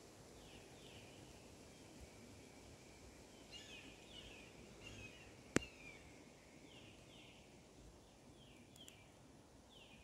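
Faint bird calls: short falling chirps, mostly in pairs, repeated every second or two over a quiet outdoor hiss. One sharp click about five and a half seconds in.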